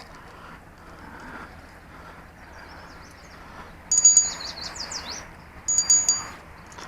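Spinning reel's drag clicking out in two short rapid bursts with a high metallic ring, about four and six seconds in, as line is pulled against a jig snagged in weeds.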